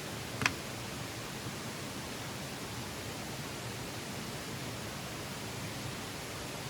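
Steady, even outdoor background rush with one short, sharp click about half a second in.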